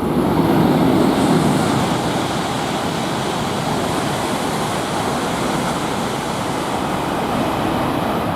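Tohoku Shinkansen train passing through the station at speed without stopping: a loud, sudden rushing roar that is strongest in the first second or two, then holds steady.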